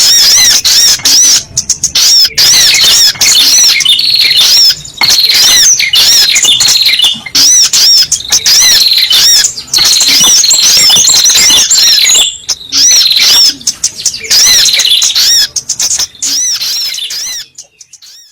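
Sogok ontong (spiderhunter) calls played as a bird-lure recording: rapid, high-pitched chirps repeated many times a second in long runs with short breaks, fading out near the end.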